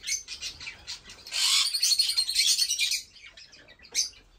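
Many small caged birds, finches and canaries, chirping and tweeting. Short high chirps, then a loud dense burst of chatter from about a second in to about three seconds, then one last chirp near the end.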